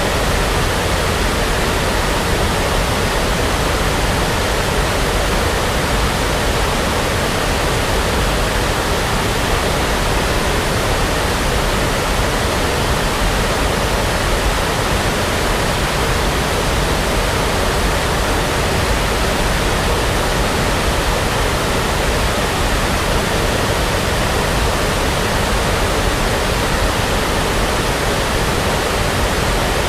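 Steady synthetic brown noise: an even, unchanging hiss spread across the whole range, with no events or changes.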